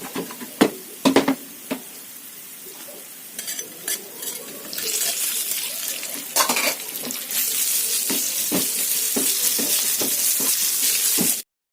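A few utensil knocks against a pan, then green beans sizzling loudly in hot oil from about five seconds in, with a spatula knocking and scraping the pan as they are stirred; the sizzle cuts off suddenly near the end.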